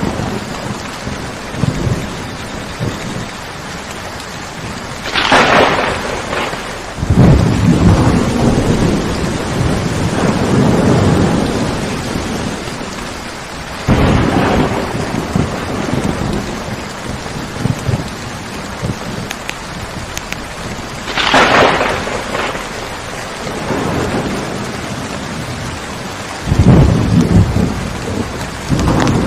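Steady rain with thunder: sharp cracks about five seconds in and again past the twenty-second mark, with low rolling rumbles that swell several times in between and near the end.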